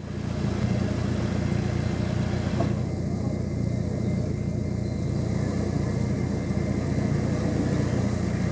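Off-road vehicle engine running steadily, a low, even hum with noise over it.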